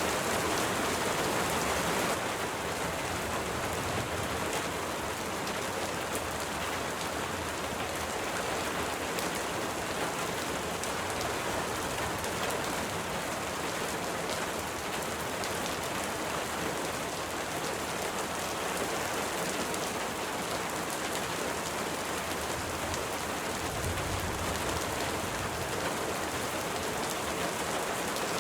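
Steady rain falling, a dense hiss with fine patter of individual drops. It steps down slightly in level about two seconds in, and a brief low rumble comes through near the end.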